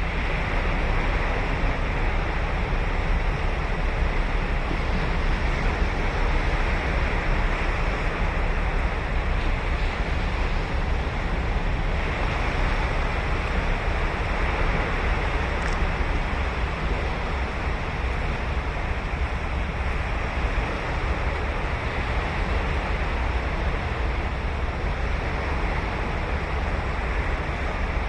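Ocean surf breaking and washing on a beach in a continuous rushing noise, swelling a little twice as larger waves break.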